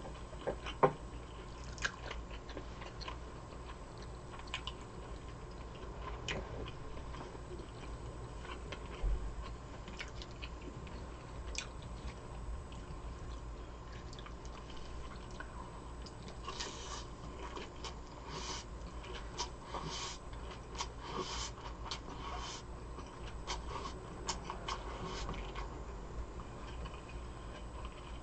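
Close-miked chewing and biting of food, with many short wet clicks. A denser run of crisp, crackling bites comes in the second half.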